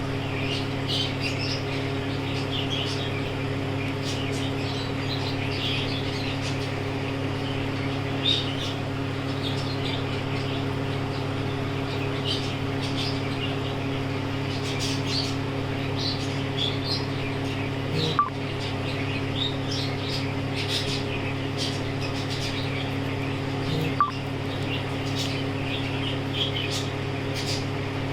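Budgerigars chirping in many short, rapid calls over a steady low hum, with two sharp clicks about six seconds apart in the second half.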